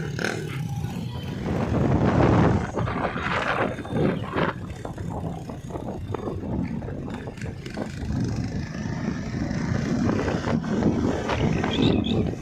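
Motorcycle engine running on the move, a rough rumble with road and wind noise that swells and eases.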